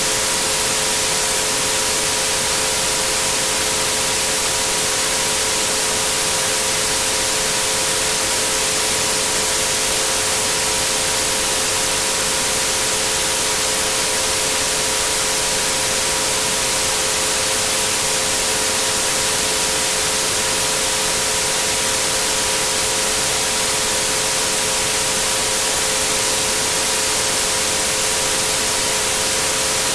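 Steady white noise hiss with three pure sine tones held underneath it at 432, 528 and 963 Hz, all unchanging.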